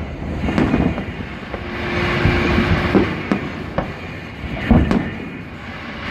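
Fireworks going off: a string of irregular bangs and booms with rumbling echoes over a continuous rumbling background, and a steady held tone for about a second midway.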